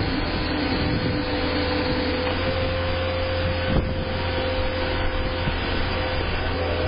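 Heavy machinery running steadily: a constant whine over a low hum. Near the end a second whine rises in pitch, and there is a single brief knock about four seconds in.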